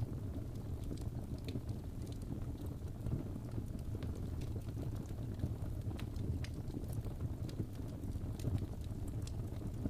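Wood fire burning in a fireplace: a steady low rumble with sharp, irregular crackles and pops a few times a second.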